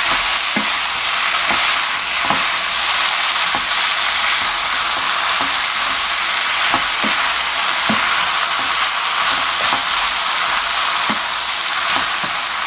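Pork, sour kimchi, onion and scallion sizzling steadily in a frying pan while a wooden spatula stirs them, with irregular clacks and scrapes of the spatula against the pan.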